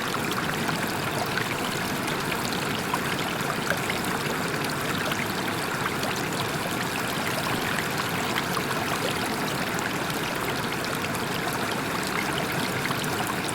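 Waterfall: water falling and splashing in a steady, unbroken rush, with small splashes and crackles running through it.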